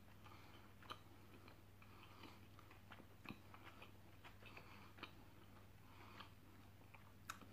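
Faint chewing of saucy kebab meat: soft wet mouth noises with a few sharp clicks and smacks, the sharpest one near the end.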